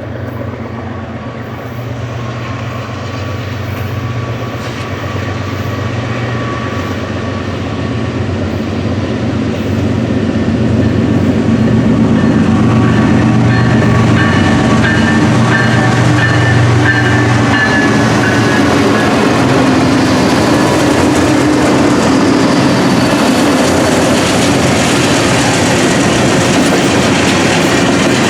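Diesel-hauled freight train passing close to the track: the locomotive's engine note grows louder over about ten seconds as it approaches, then the train's wheels on the rails keep up a steady, loud rolling noise as the cars go by.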